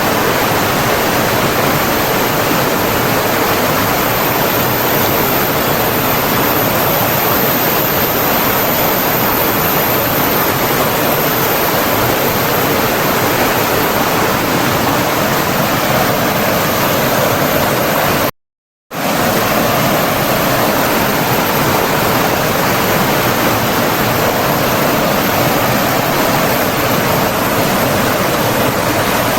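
Flowing water rushing steadily. The sound drops out to total silence for about half a second, roughly two-thirds of the way through, then resumes unchanged.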